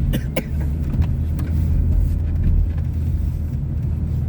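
Vehicle engine running with a steady low drone while driving slowly over a snowy woods trail, with a couple of sharp clicks or knocks in the first half second.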